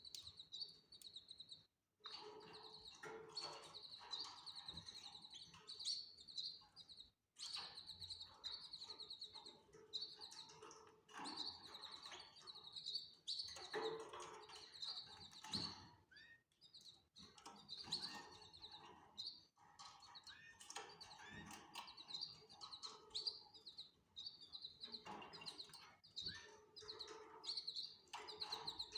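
Canaries chirping and twittering in quick repeated high trilled notes, faint throughout, with the sound cutting out briefly twice near the start.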